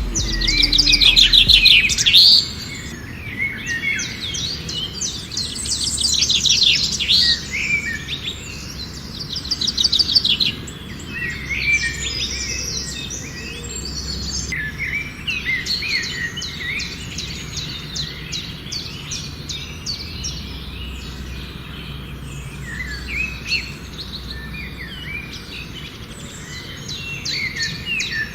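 Songbirds chirping and calling, with several rapid trills in the first ten seconds, then scattered short chirps.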